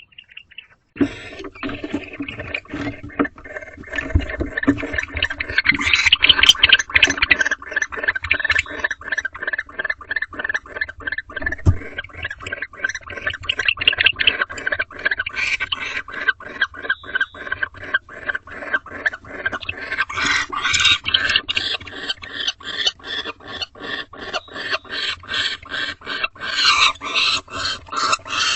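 Barn owls in the nest box giving rapid, rasping hiss calls, repeated two to three times a second, starting about a second in and keeping on.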